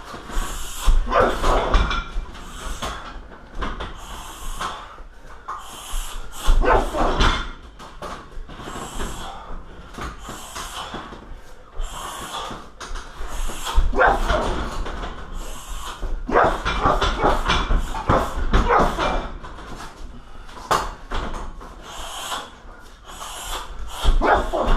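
Strikes (shin kicks, knees and punches) thudding into a 60 kg heavy bag in quick clusters of blows with pauses between, along with the fighter's sharp hissing exhales.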